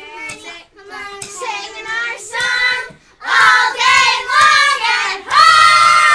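Children singing, softly at first, then louder from about three seconds in, ending on a long held note.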